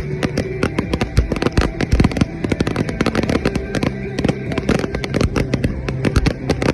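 Backyard consumer fireworks finale: a dense, continuous barrage of rapid, overlapping bangs, several a second.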